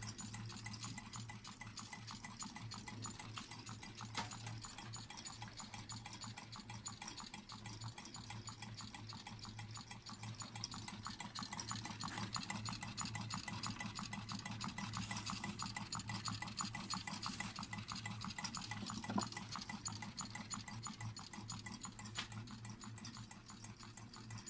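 Homemade water-cooled Stirling engine, built from a WD-40 spray can and a Red Bull can, running with a fast, steady mechanical clatter over a low hum, with one sharper knock about three-quarters of the way through.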